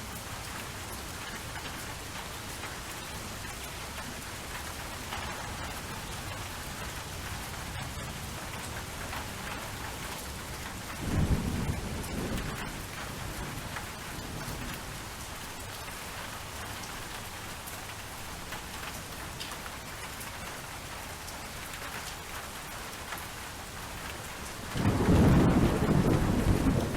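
Steady rain falling, with two low rolls of thunder: a short one about eleven seconds in and a longer, louder one starting near the end.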